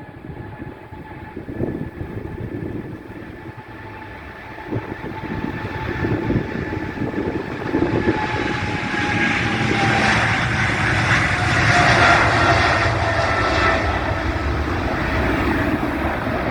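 Boeing 777-300ER's GE90 turbofan engines passing: a whine that slowly drops in pitch under a rising jet rumble that peaks about twelve seconds in, with wind buffeting the microphone.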